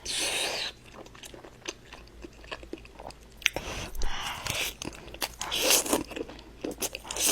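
A person biting and chewing food close to the microphone: a few wet, crunchy bites separated by softer chewing and clicks.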